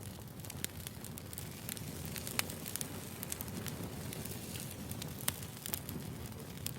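Burning firewood crackling: a steady low rumble of flames with irregular sharp pops and snaps. The two loudest pops come about two and a half and about five seconds in.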